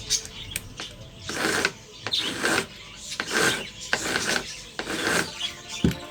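Rasping strokes on wood, about five of them in a steady back-and-forth rhythm, then a single dull knock near the end.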